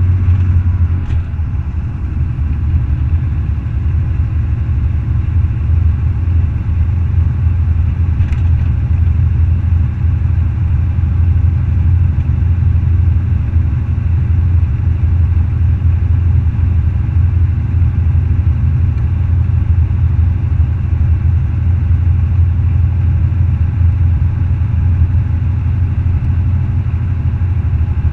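Semi truck's diesel engine running at a steady low drone that hardly changes.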